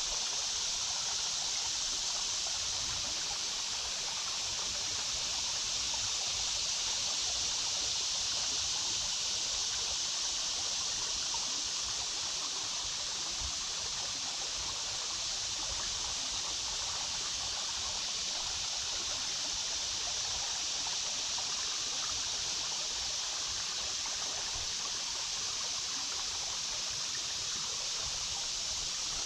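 A creek babbling steadily, an even rush of flowing water with no breaks.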